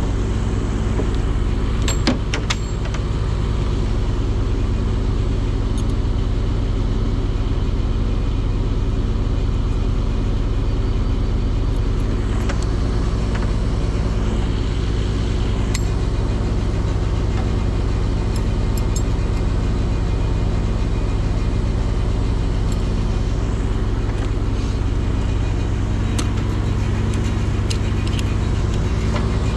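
Engine running steadily at one unchanging pitch, with a few brief clicks and knocks over it.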